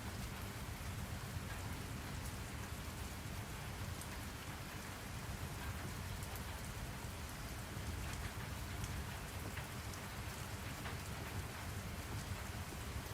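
Steady rain falling, an even hiss with a low rumble underneath and scattered individual drop ticks.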